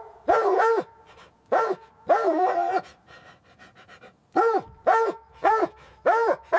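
Dog barking in short, sharp barks: a run of four or five, a pause of about a second and a half, then a quicker run of four or five more.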